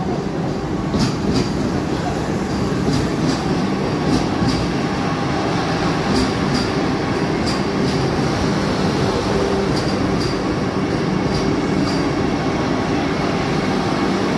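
Electric passenger train running alongside the platform with a steady loud rumble, and pairs of sharp clicks every second or two as its wheels cross rail joints.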